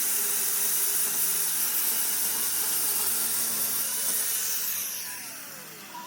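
A power tool running with a steady hissing, then winding down: its pitch falls and the sound fades over the last couple of seconds.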